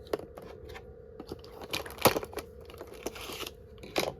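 Handling of a small packaged craft item: scattered light clicks and crinkling, with sharper clicks about two seconds in and near the end.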